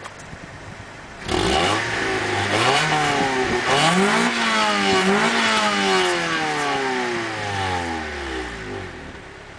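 1989 Honda Prelude Si's 2.0-litre four-cylinder engine revved through a Neuspeed N2 header, Magnaflow high-flow cat and stock cat-back exhaust. It comes in suddenly about a second in, climbs in a few rising blips of throttle, then the revs fall slowly back down and fade near the end.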